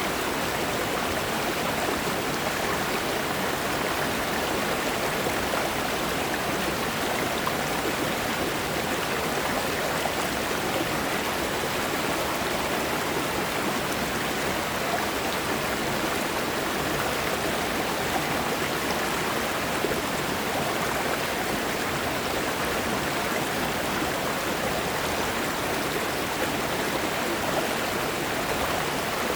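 Mountain stream rushing over smooth rocks, a steady, even flow of water.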